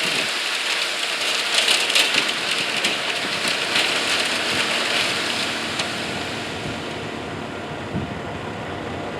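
Wet concrete running down a ready-mix truck's chute: a steady gritty hiss with scattered clicks that thins out over the last few seconds as the pour slows.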